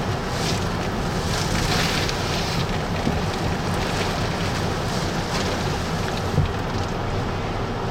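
Hurricane-force wind blowing in surges and buffeting the microphone, with one short thump about six seconds in.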